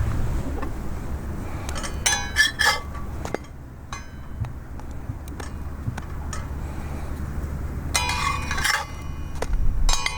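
Kitchen utensils clinking against metal cookware in three short clusters of ringing clinks, a little after two seconds, around eight seconds and again near the end, over a steady low rumble.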